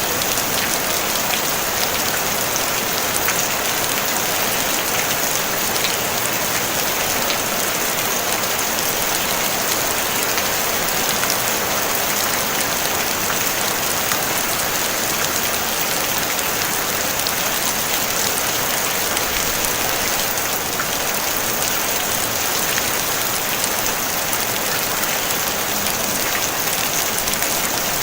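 Steady rain falling on a tin roof: an even hiss, brightest in the high range, thick with fine drop taps.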